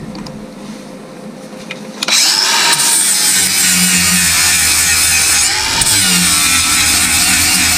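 A power tool starts suddenly about two seconds in and runs loud and steady.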